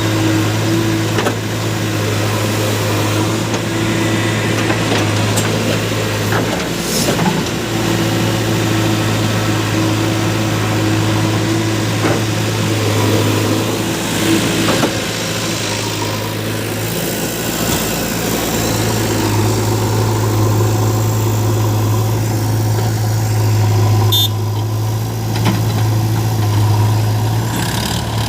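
Diesel engine of a backhoe loader at work, running steadily with a low, even hum. A couple of brief knocks sound through it.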